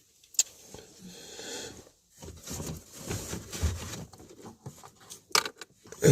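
Hands working a plastic HVAC blend door gear and the wiring under a dashboard: irregular rustling and scraping, with a sharp click about half a second in and two more near the end.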